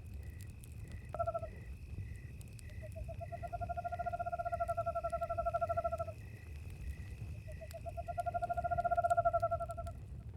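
An owl calling: a short note about a second in, then two long quavering trills of about three seconds each. Under it, crickets chirp in a steady, regular pulse, and a campfire crackles with faint pops over a low rumble.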